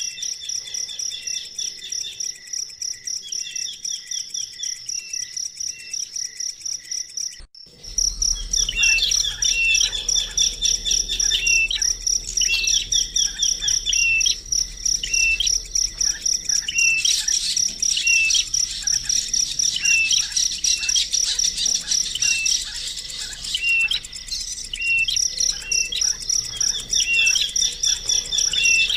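Small birds chirping: a short call repeats about once a second over a steady, fast-pulsing high insect trill like a cricket's. The sound cuts out abruptly a little over seven seconds in, then returns louder, with a low rumble underneath for several seconds.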